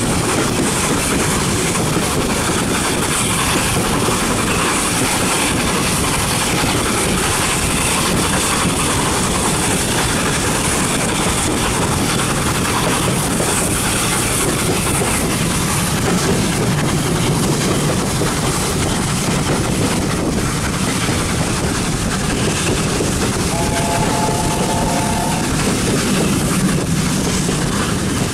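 Steady running noise of a heritage railway carriage heard from inside, its wheels rolling on the rails. A short pitched tone sounds for about two seconds near the end.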